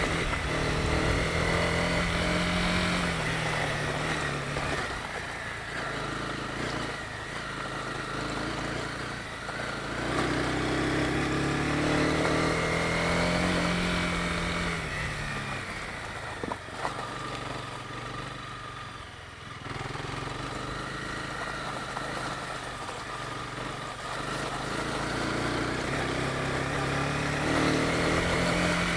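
Honda CB250R's single-cylinder engine pulling the motorcycle along, its revs climbing and falling back several times as the rider accelerates and rolls off the throttle. There is a short click about two-thirds of the way in.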